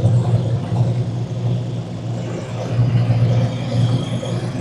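Car engines idling with a steady low rumble.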